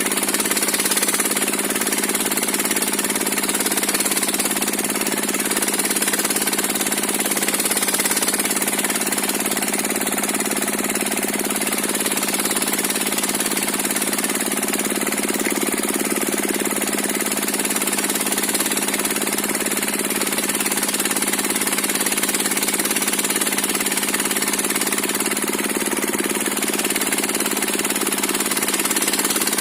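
Diesel-engine-driven circular saw bench running steadily, the engine and spinning blade keeping an even, unbroken noise.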